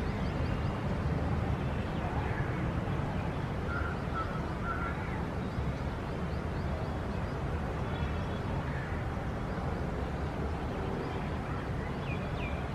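Steady low rumble of city traffic, with birds calling now and then over it in short, faint calls.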